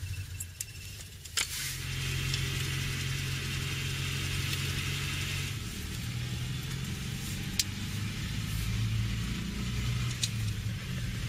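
Air-cooled flat-twin engine of a classic Citroën, first running low, then pulling steadily as the car drives along, with road and wind noise. A sharp click comes about a second and a half in, and the engine note shifts about six seconds in.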